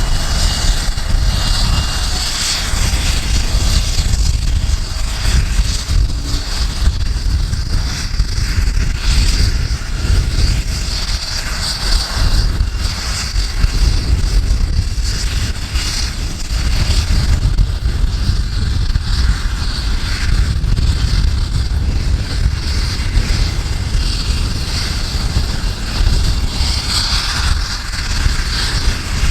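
AgustaWestland AW109 helicopter running, its twin turbine engines and rotor giving a steady high hiss over a low rumble. Strong wind buffets the microphone.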